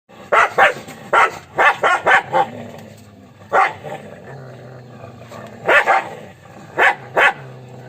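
A dog barking: about a dozen short, sharp barks in irregular groups, a quick run of several in the first two and a half seconds, then single barks and pairs with pauses of a second or more between them.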